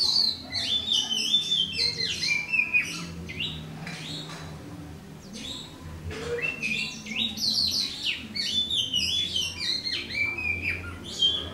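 Oriental magpie-robin (white-breasted kacer) singing: varied whistled phrases that rise and fall, in two bouts. The first runs through the opening three seconds; after a pause, the second starts about six seconds in and runs almost to the end.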